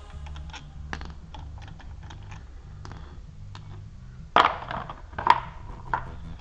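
Hand tools being handled on a metal engine: a string of small irregular clicks and taps, with two louder metallic clanks a little past halfway, the second one ringing briefly.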